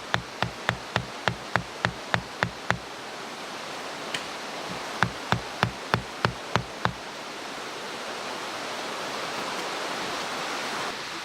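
Steady rush of a mountain stream with two runs of sharp, evenly spaced knocks, about three a second: one run in the first three seconds and a shorter one about five to seven seconds in, like repeated hammer or hatchet blows.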